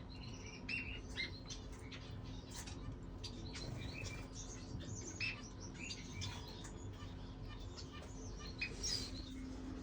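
Birds chirping and peeping, many short high calls scattered throughout, over a faint steady low hum.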